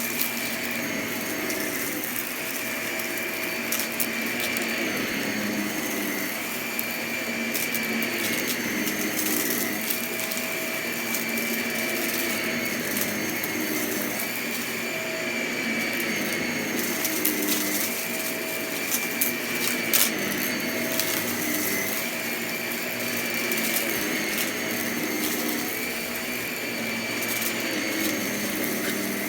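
Vacuum cleaner running steadily, its pitch shifting up and down every couple of seconds, with scattered sharp clicks and crackles of crunchy debris being sucked up, one louder crack near the end.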